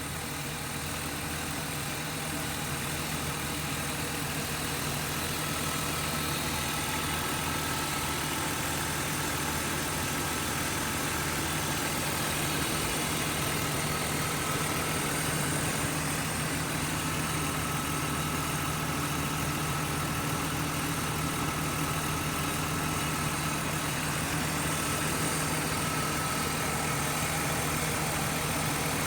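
Dinan-tuned 1998 BMW M3 straight-six engine idling steadily.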